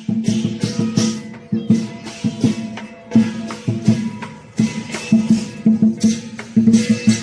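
Lion dance percussion band playing: a big drum beating under repeated crashes of clashing cymbals, in a steady, loud rhythm.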